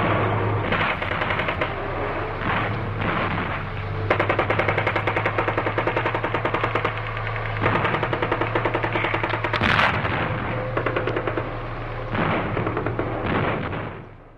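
Battlefield ambience of rapid machine-gun fire in repeated bursts, with a steady low drone underneath and a single sharp, louder shot about ten seconds in. It fades out near the end.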